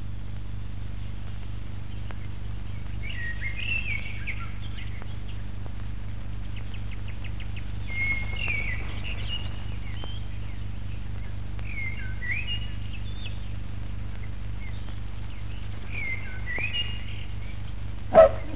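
Small birds chirping in short phrases every few seconds over a steady low hum. A brief loud sound comes near the end.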